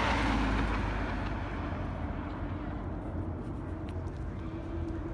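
Steady low rumble of a vehicle running, with a faint steady hum and a hiss that fades away over the first second or so.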